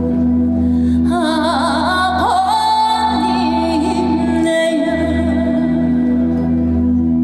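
Woman singing a Korean folk song (minyo) in a medley, her voice wavering with heavy vibrato for a few seconds and then holding a note, over a steady musical backing.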